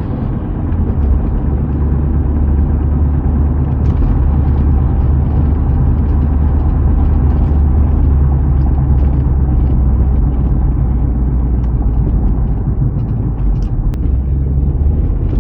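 Inside the cabin of a big-turbo Audi B5 cruising at steady speed: a constant low engine and road drone with no hard revving.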